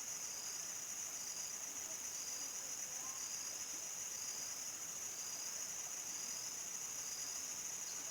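Crickets chirping in a steady, high, unbroken trill, a nightfall countryside chorus, with a fainter short note repeating about once a second.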